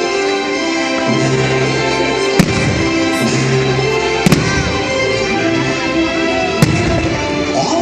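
Fireworks shells bursting with four sharp bangs, two of them nearly together about halfway through, over the show's music of long held notes.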